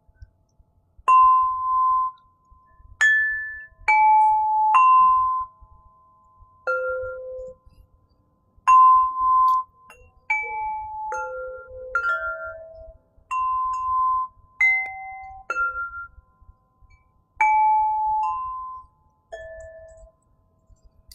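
Crystal harp played slowly: single plucked or struck notes, each ringing clear and fading within about a second, in a loose, unhurried melody with short pauses between notes.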